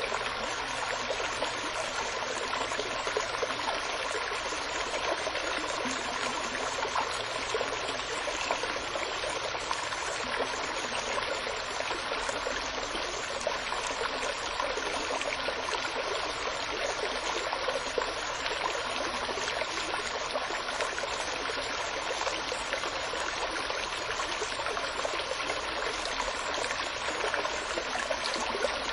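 Flowing stream water running steadily, an even rushing and trickling without a break.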